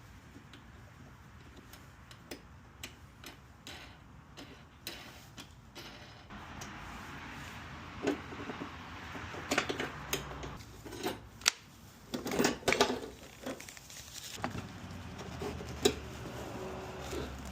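Hand tools clicking and clinking against metal during car battery replacement: irregular sharp clicks, sparse at first and busier and louder from about eight seconds in.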